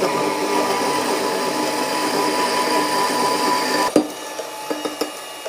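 Power tool cutting through an exhaust pipe: a steady, loud whine mixed with grinding noise. About four seconds in there is a sharp clunk, and after it the tool runs on more quietly.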